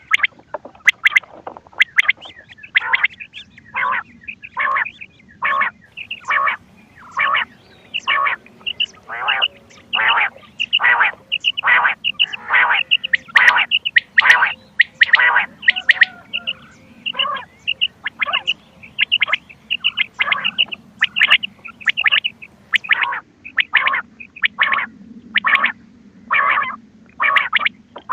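Quail calling: short, sharp calls repeating roughly once a second, as played on a hunting lure recording.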